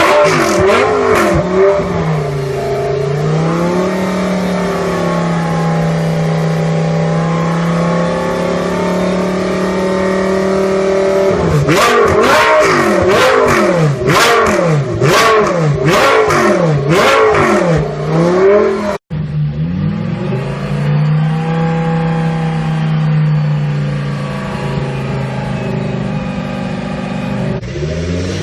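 Audi R8 LMS Ultra racecar's 5.2-litre V10 engine under way. It holds a steady pitch for several seconds, then revs up and drops repeatedly with sharp cuts between, as when shifting through gears under hard acceleration. It breaks off suddenly about two-thirds through, holds steady again, and starts revving once more near the end.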